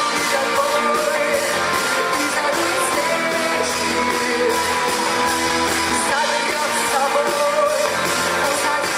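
Live rock band playing an instrumental passage of the song, with guitar prominent, loud and steady.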